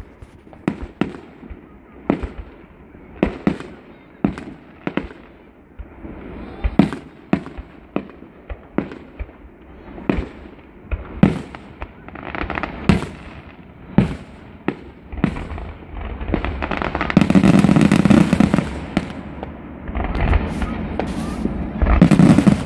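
Aerial fireworks shells bursting in a steady run of sharp bangs, about one to two a second. Past the midpoint the bangs merge into a dense, continuous barrage of overlapping bursts: the finale of a fireworks display.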